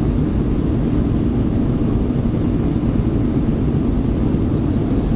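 Steady cabin noise of a jet airliner in flight: engines and rushing air heard from inside the passenger cabin, a constant low rumble with no change in level.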